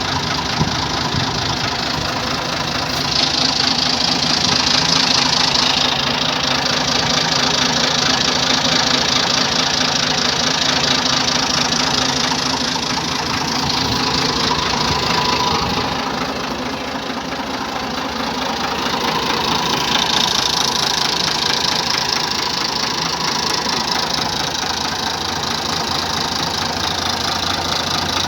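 Ford 4600 tractor engine running steadily at a low, idle-like speed, its sound swelling and easing a little over the stretch.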